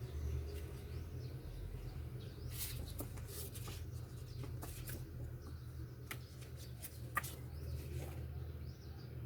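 Scattered light clicks and rustles of a power supply's box and packaging being handled, over a steady low hum.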